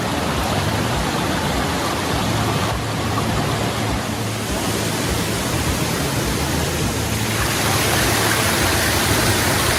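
Mallyan Spout waterfall: falling water making a steady, loud rush.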